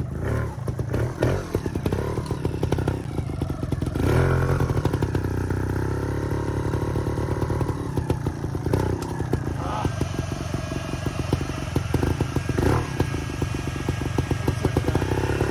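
Trials motorcycle engine running and revving in repeated bursts, with sharp knocks between.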